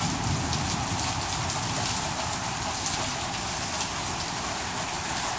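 Heavy rain pouring down in a steady hiss, with drops pattering on the ground and surfaces.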